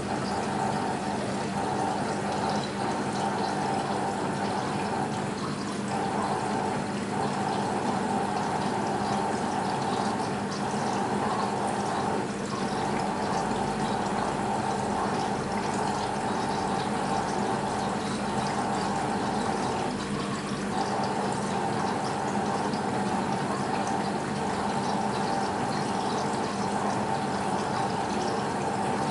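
BEKO WMB 51441 washing machine moving water during the rinse part of its program, with a continuous rush of water under a steady hum.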